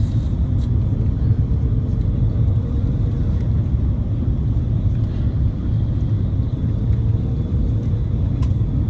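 Steady low rumble of an Airbus A330-300's airflow and Rolls-Royce Trent 700 engines heard inside the cabin in flight, with a faint steady hum above it.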